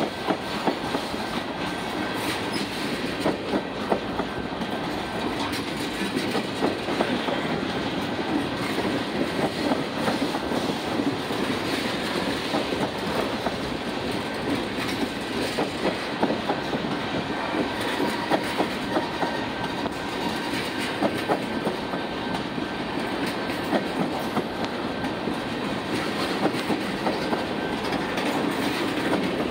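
Freight train tank cars rolling past close by: steel wheels clacking irregularly over rail joints above a steady rolling noise.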